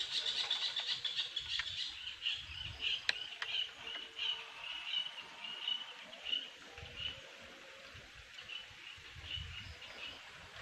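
A bird chirping in a rapid run of short, high notes, loudest in the first few seconds and thinning out toward the end, with a sharp click about three seconds in.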